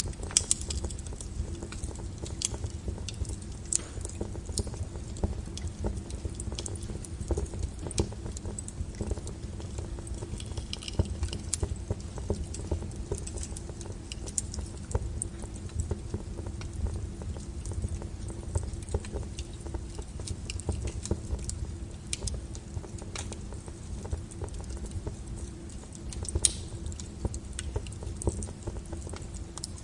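Wood fire burning: irregular crackles and pops over a steady low rush of flame.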